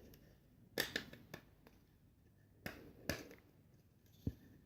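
Several faint, separate clicks and taps of small 3D-printed plastic engine parts being handled and fitted together.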